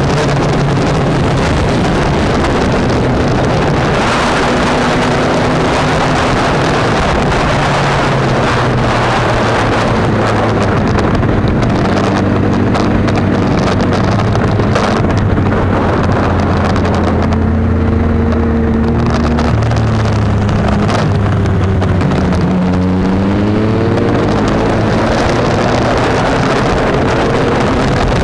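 2017 Yamaha MT-09's three-cylinder engine running hard at speed, its note rising and falling with throttle and gear changes, under heavy wind rushing over the microphone.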